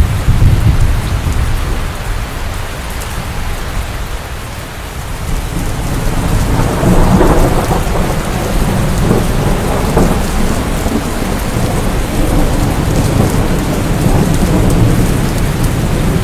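Steady heavy rain with rolling thunder. A low rumble dies away over the first few seconds, then another roll of thunder builds about six seconds in and rumbles on.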